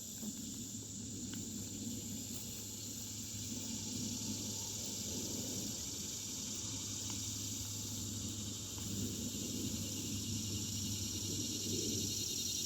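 Insects trilling steadily in a high chorus with a fine, even pulse, over a low steady rush of background noise.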